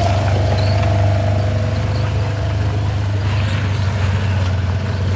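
Steady low engine rumble with a fainter higher tone that sags slightly in pitch over the first couple of seconds.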